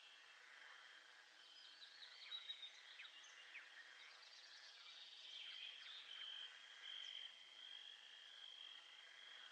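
Faint nature ambience: a steady high insect trill that breaks off and resumes, with scattered bird chirps, most of them between about two and six seconds in.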